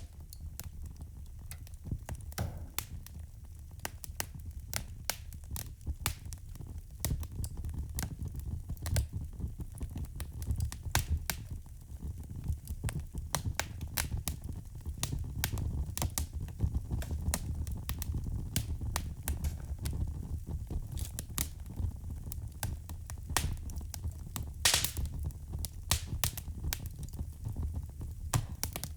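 Wood fire crackling and popping at irregular intervals over a steady low rumble of flames, with a louder snap about 25 seconds in.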